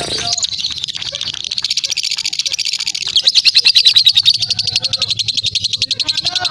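Lovebird singing a long unbroken ngekek ('crot') song: a rapid, high chattering trill of many notes a second that carries on without a pause and grows louder about three seconds in.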